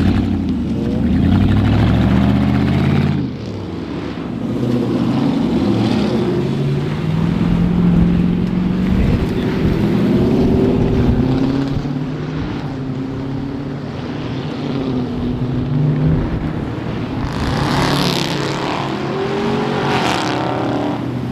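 Several loud muscle-car V8 engines running and revving, their pitch rising and falling as they overlap, with two harsher bursts near the end.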